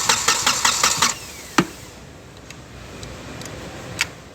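Common-rail diesel engine turning over on the starter motor without firing, with an even beat of about five or six compression pulses a second; the injector and IMV connectors are unplugged so it cannot start while air is bled out at the injector lines. The cranking stops abruptly about a second in, followed by a sharp click and another click near the end.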